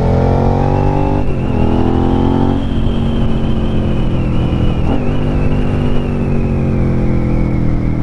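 Twin-cylinder motorcycle engine heard from the rider's seat, revs climbing through a gear, an upshift about a second in, then climbing again before easing off and slowly falling as the bike slows, over steady wind noise.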